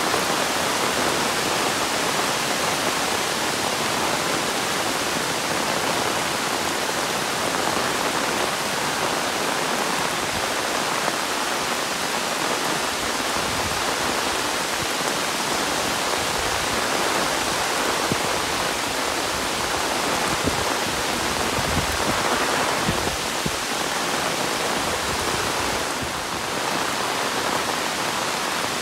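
Steady heavy monsoon rain, a dense even hiss of downpour.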